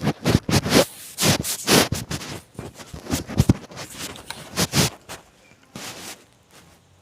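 Irregular scratching and scraping, a quick uneven run of rubbing strokes that stops about five seconds in, with one more stroke shortly after.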